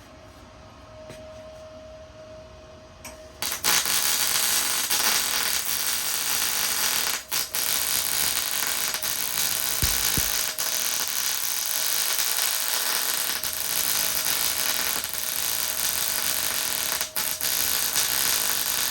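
MIG welding arc crackling steadily while a bead is laid. It strikes about three and a half seconds in, breaks briefly twice a few seconds later, then runs on and stops abruptly at the end.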